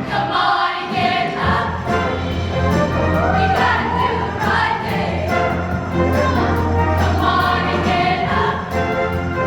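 High school show choir singing in harmony over a band accompaniment with a steady bass line and percussion.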